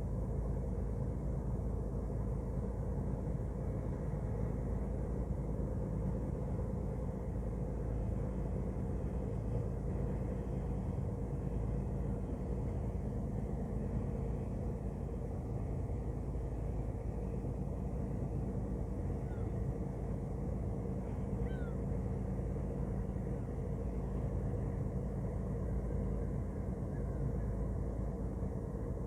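Ship's engine running steadily: a low, even rumble with a constant hum.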